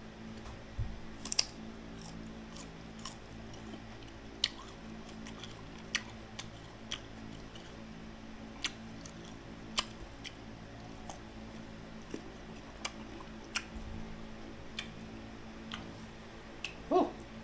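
Biting and chewing firm mango slices: a scattered series of short, sharp crunchy clicks over a steady low hum.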